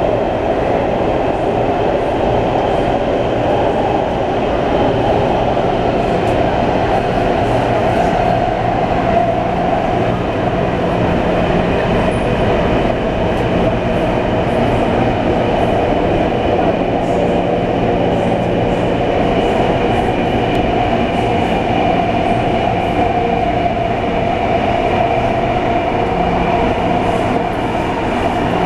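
A train running steadily: a continuous rumble with a steady low hum and a few faint ticks.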